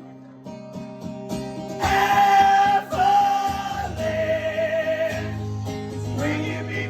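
Live song with a singer over strummed acoustic guitar, quiet at first and fuller from about two seconds in, with long held vocal notes, one of them wavering.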